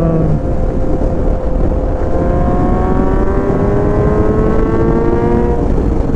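Kawasaki Z900's inline-four engine pulling under acceleration, its pitch rising steadily for a few seconds before falling away near the end, over heavy wind rumble on the microphone.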